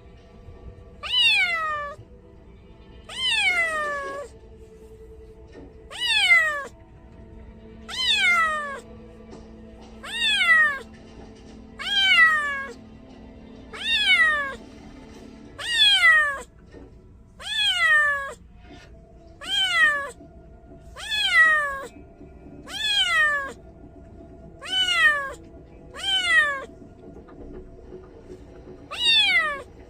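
Kitten meowing over and over, about one call every one and a half to two seconds, each call high and falling in pitch. These are the distress cries of a kitten separated from its mother.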